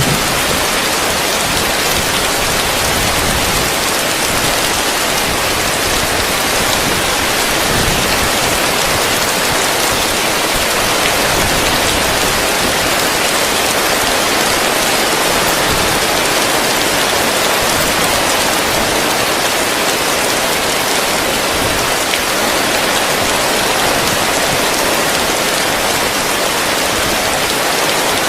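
Heavy rain falling steadily on a roof, a dense, even hiss of drops with no let-up.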